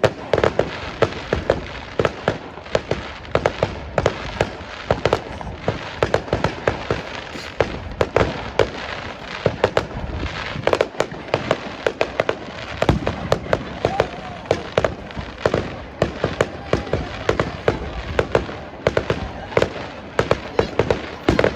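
Fireworks display: a rapid, continuous barrage of sharp bangs and crackling from bursting fireworks, several reports a second, with no let-up.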